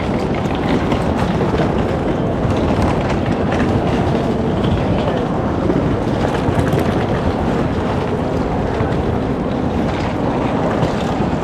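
Train in motion: a steady rumble with rail noise.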